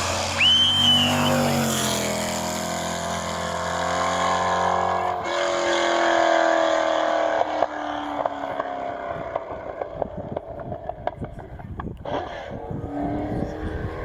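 Classic racing car engine accelerating hard up the hill, its pitch rising and then holding as it runs past, loudest about six seconds in before fading away. A rapid patter of sharp clicks follows in the last few seconds.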